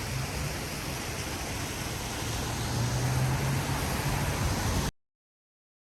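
Steady rushing of a waterfall, with a low traffic hum swelling in the second half; the sound cuts off suddenly near the end.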